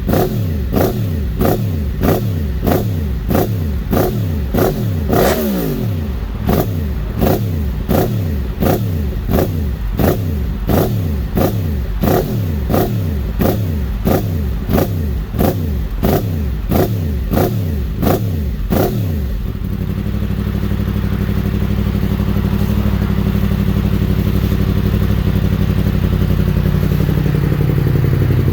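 2017 Yamaha FZ-10's crossplane inline-four, through a full Graves titanium exhaust, warming up from a cold start: rapid, evenly repeated blips of revs, each falling away again, nearly twice a second, then about two-thirds through it settles into steady running that climbs a little near the end.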